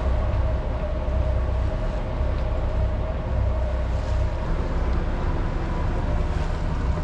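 Sailing yacht's engine running steadily at low speed, a constant low hum with a steady mid-pitched tone, as the boat motors slowly at about 2.5 knots.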